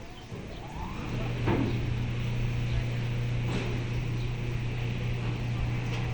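An engine revs up about a second in and settles into a steady low hum.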